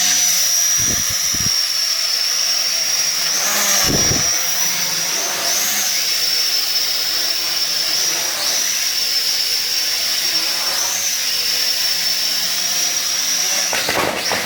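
Sky Viper v950 quadcopter's four small electric rotors whining steadily in flight. The pitch wobbles briefly every few seconds as the throttle and trim are corrected.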